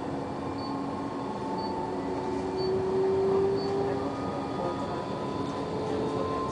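Tram running on rails: a steady rumble of wheels with motor tones that slowly shift in pitch, getting a little louder partway through. Four short high beeps sound about a second apart in the first half.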